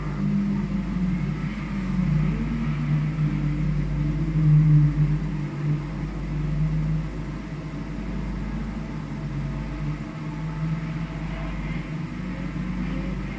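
A vehicle's engine running under load while lapping a race circuit, heard onboard with a steady low rumble; it is loudest about four to five seconds in and eases off after about seven seconds.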